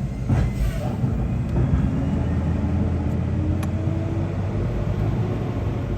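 Rear-loader garbage truck's engine running with a steady low rumble. A faint tone rises slowly in pitch through the middle, and there is a single sharp click a little after halfway.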